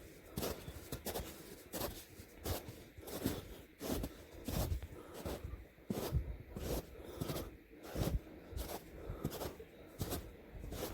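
Footsteps of a hiker walking steadily on a trail, about two steps a second.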